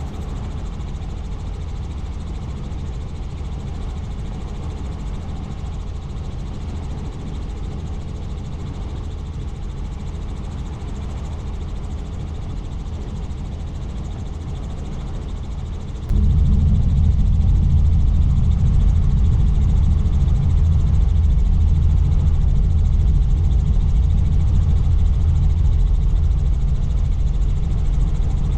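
Helicopter in flight: a steady low drone of rotor and engine. About halfway through it abruptly becomes louder and stays so.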